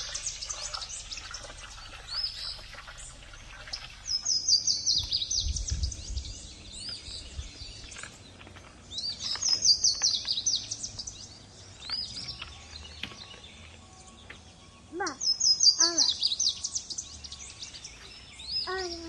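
A songbird singing: a fast run of high, descending notes repeated three times, with short single chirps in between.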